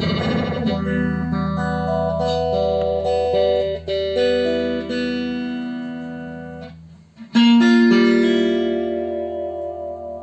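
Guitar played through an All Sound SC52 phaser pedal, with the phase effect on while its speed setting is being demonstrated. Picked notes and chords ring out and fade, then a new chord is struck about seven seconds in and left to ring.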